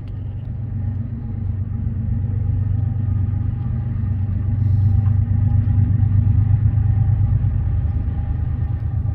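Diesel freight locomotives rumbling, growing louder over the first six seconds or so and then holding steady.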